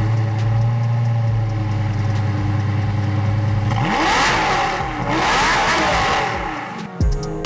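Lamborghini Huracan's V10 just after starting, holding a steady high idle, then revved with the pitch sweeping up and down from about four seconds in, before the sound cuts off near the end.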